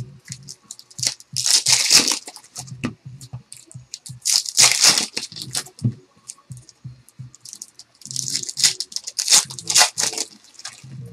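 Foil trading-card pack wrappers being torn open and crinkled, in three longer rustling spells, with short soft knocks of cards being handled in between.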